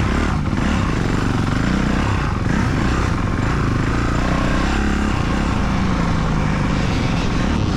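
Motocross dirt bike engine being ridden on a track, its pitch rising and falling as the throttle opens and closes.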